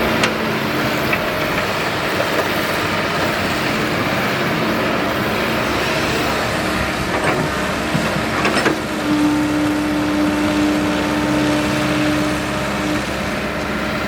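Excavator's diesel engine running steadily, with a few sharp clanks and a steady whine held for about four seconds in the latter part.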